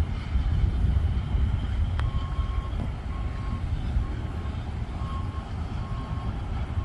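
Repeating electronic beep, about one short beep a second, starting about two seconds in with a click, over a steady low rumble.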